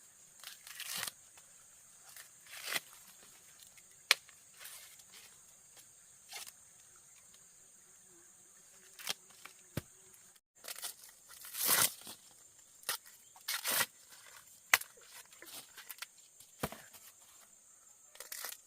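Irregular sharp snaps and rustling of corn plants, as ears are broken off the stalks and dry leaves and husks crackle. A steady high hum runs underneath, breaking off briefly about halfway through.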